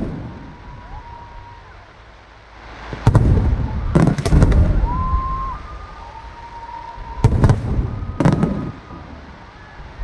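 Aerial fireworks shells bursting in booming clusters: a bang about three seconds in, a quick run of bangs a second later, then two more bangs near the end, each trailing off, with thin whistling tones between them.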